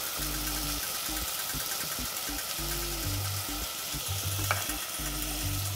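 Shallots, ginger, chilli, garlic and chopped tomato sizzling in hot oil in a stainless steel pot, a steady frying hiss, with one light click about four and a half seconds in.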